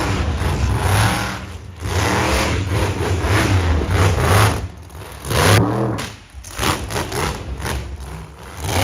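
Monster truck engine revving hard, its pitch rising and falling as the throttle is worked, with brief lulls between the surges.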